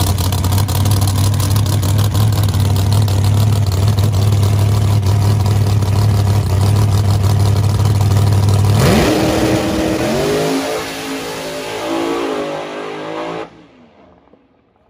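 ProCharger-supercharged Chevy Nova drag car's engine running loud and steady at the starting line, then launching about nine seconds in: the pitch sweeps up and climbs in steps as the car pulls away and fades down the track. The sound cuts off suddenly near the end.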